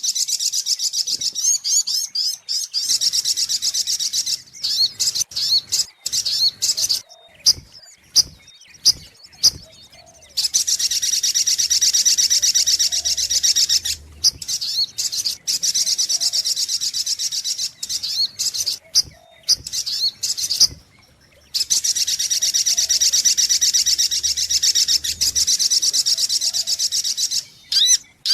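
Little spiderhunter (sogok ontong) calling: long runs of rapid, high chipping notes lasting several seconds each, broken by short pauses and sharp clicks, as played back for luring the bird.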